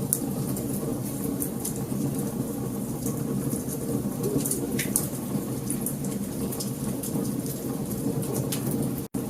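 Wood fire crackling, with frequent sharp pops and snaps over a steady low rumble. The sound cuts out for an instant near the end.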